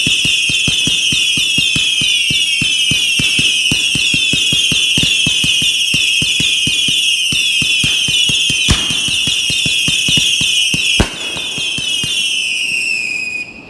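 Whistling fireworks: many loud, shrill whistles overlap, each falling in pitch, over a rapid crackle of pops. Two heavier bangs come near the end, and then the sound cuts off suddenly.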